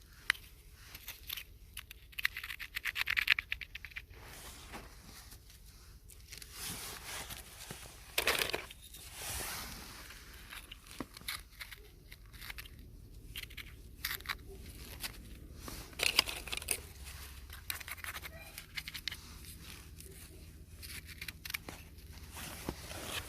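Close-up rustling, scraping and tearing sounds in irregular bursts of a second or so, with short pauses and a few sharp clicks between them.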